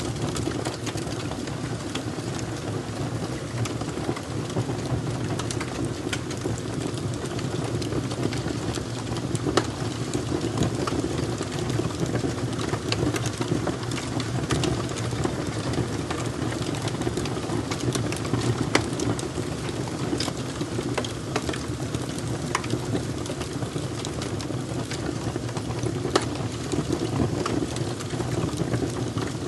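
Fire crackling: a steady low rushing under frequent irregular sharp pops and snaps.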